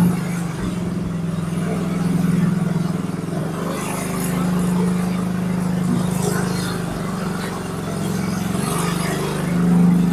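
Motorcycle engine running steadily at low speed, its pitch rising and falling slightly as the bike creeps along.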